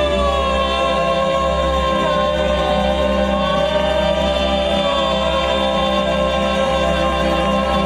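Gospel singing: one long final note held with a slight vibrato over sustained backing music, as a song ends.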